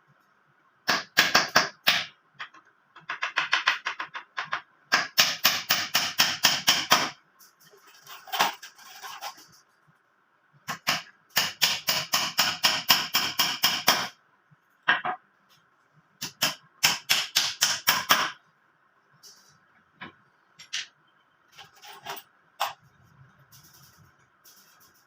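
Hammer tapping nails rapidly in five bursts of one to three seconds, with short pauses between, over a faint steady hum.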